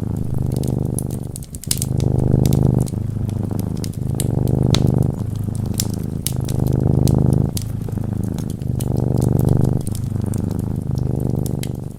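Cat purring in a steady rhythm, each purr cycle lasting about a second and a half with short breaks between. A wood fire crackles over it in scattered sharp ticks and pops.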